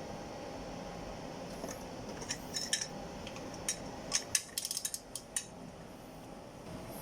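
Metal hand tools clinking and clicking over a steady hum: a scattered series of sharp clicks, with a quick run of them about four and a half seconds in. They come from tools at work on the head bolts of a Toyota 1NZ-FE engine during the final tightening pass.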